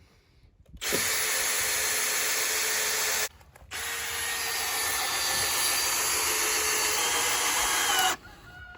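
Power tool, most like a drill, running in two long runs: one starting suddenly about a second in and stopping short after about two and a half seconds, then a second, longer run after a brief pause that cuts off near the end.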